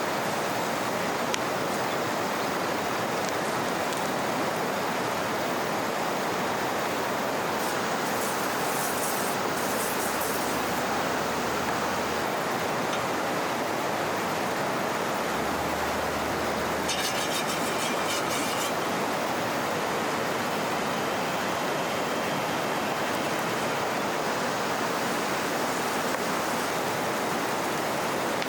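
Steady rush of flowing river water. A brief high chirring is heard about 17 seconds in.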